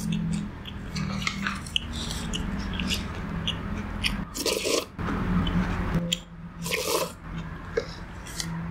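A person chewing and biting food close to the microphone, with many small crunchy clicks and two louder crunches, one about halfway through and one a couple of seconds later, over a steady low hum.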